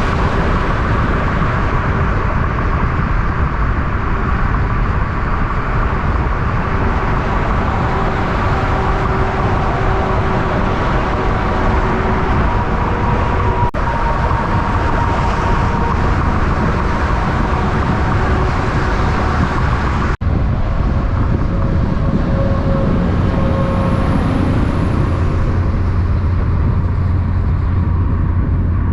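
Heavy diesel semi trucks driving past on a road, a loud steady engine and tyre rumble, broken by two abrupt cuts.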